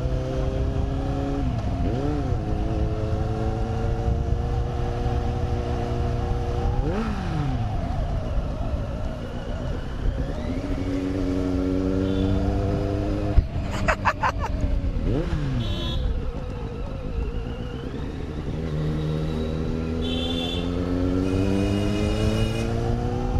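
Superbike engine accelerating through the gears: its pitch climbs steadily in each gear and drops sharply at each upshift, several times over.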